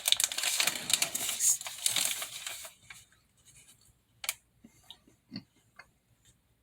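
Donut-bites packaging crinkling and rustling as it is torn open, a dense crackle that stops about two and a half seconds in. After that there are only a few faint, separate clicks.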